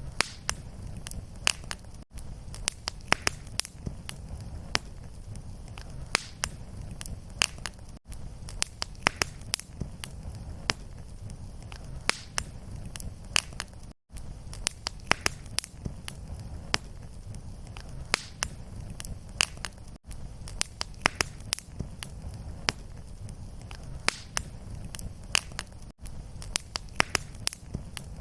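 Fireplace fire crackling: a steady low rumble of flame with frequent sharp, irregular pops and snaps. The recording is a short loop, with a brief dropout about every six seconds where it repeats.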